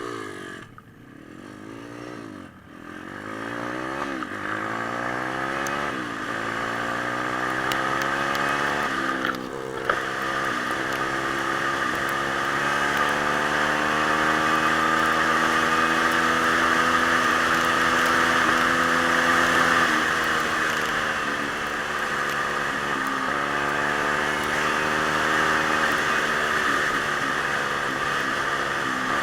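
Pit bike's single-cylinder four-stroke engine revving in a few short blips, then pulling up steadily through the revs and running hard at high revs, easing off and picking up again a few times as the throttle is worked.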